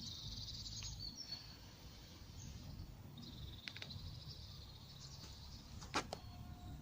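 Birds singing, with high chirping trills near the start and again in the middle, over a faint low rumble; a single sharp click about six seconds in.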